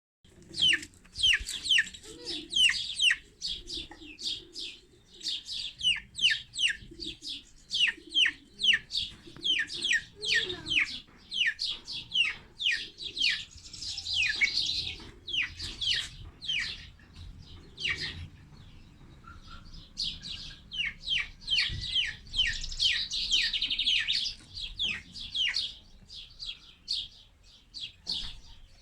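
Baby chicks peeping: a rapid, continuous chorus of short, high-pitched chirps that fall steeply in pitch, several a second, overlapping at times, thinning briefly about two-thirds of the way through.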